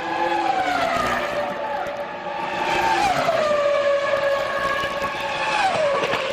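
Formula One car engines running at high revs, their pitch dropping in three glides about a second, three seconds and six seconds in, as the cars pass or slow.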